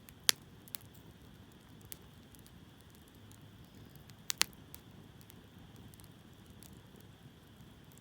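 Hardwood campfire burning in a steel fire stand: a low steady hiss with sharp pops and crackles of the burning wood, the loudest pop about a third of a second in and a double pop a little after four seconds.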